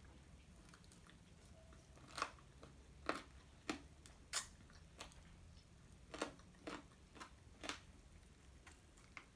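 Close-up eating sounds of KFC fried chicken: a series of short, sharp crunches and snaps of crispy skin and meat being bitten and torn, about seven spread over several seconds.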